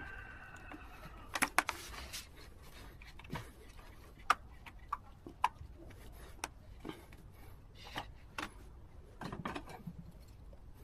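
Irregular sharp clicks and light taps of pliers and metal wire being worked against a plastic chair, scattered unevenly with a few louder snaps.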